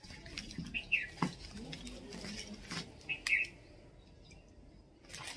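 A bird chirping: two short falling chirps about two and a half seconds apart, with a few faint clicks and low background sound.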